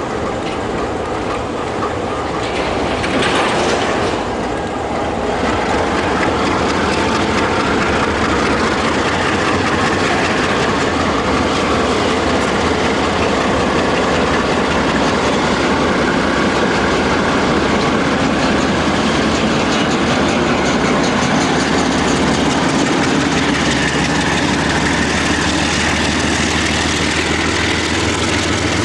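A diesel locomotive's engine running close by as a train moves on the rails, with wheel and wagon noise over the track; a steady low engine note settles in near the end.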